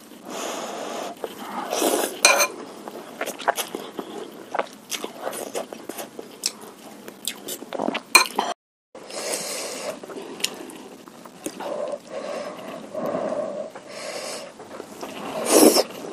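Cutlery clinking and scraping against a bowl in a string of short clicks, with close-up eating sounds from a meatball-and-spicy-broth meal. The sound cuts out completely for a moment about halfway through.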